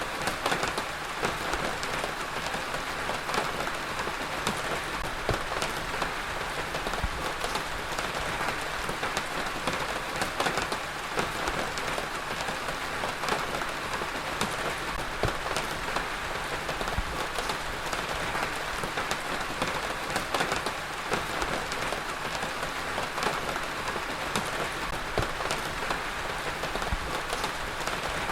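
Heavy rain falling steadily, a dense hiss of drops spattering on a surface with countless small drop hits.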